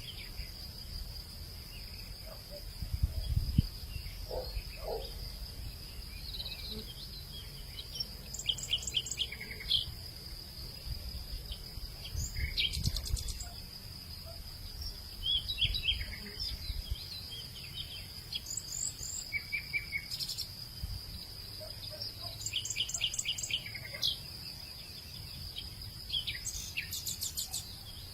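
Evening hillside ambience: a steady high-pitched insect drone throughout, with repeated short bird chirps and trills every few seconds. A low rumble underneath swells now and then.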